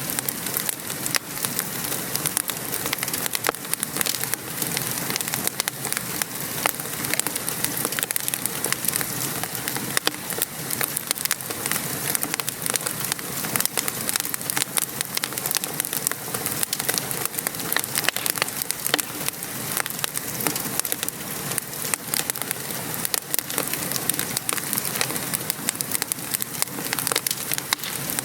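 Wood fire crackling over steady rain: a constant hiss of rainfall dotted with frequent sharp pops and snaps from the burning logs.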